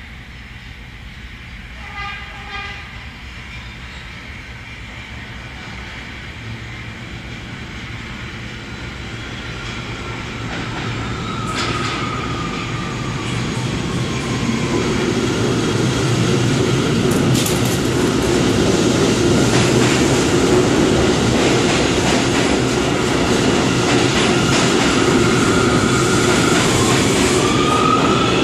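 R179 subway train giving a short horn blast about two seconds in, then approaching with rumble and wheel noise that grows steadily louder. Its motor whine falls in pitch as it slows and holds a steady tone, then starts to rise again near the end.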